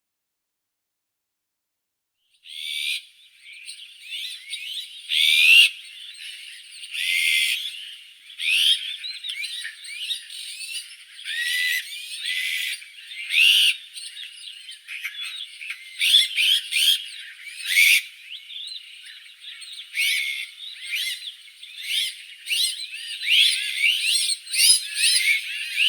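Azure-winged magpies calling: many short rising and falling whistled calls in quick succession, starting about two and a half seconds in.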